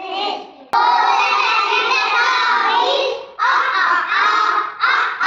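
Young children's voices chanting phonics sounds together, loud and in short phrases. A sharp click under a second in.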